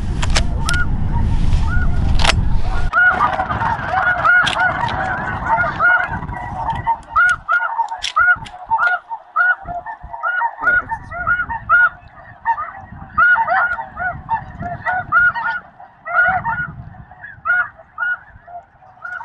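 Snow geese calling, many short honks overlapping in quick succession, several a second. A low rumble sits under the first three seconds.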